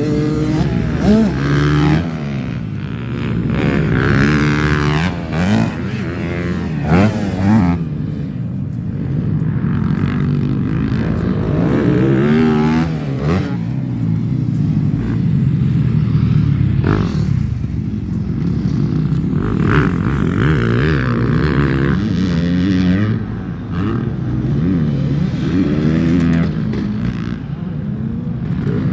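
Several motocross bikes riding laps, their engines revving up and down through the gears with overlapping rising and falling pitches.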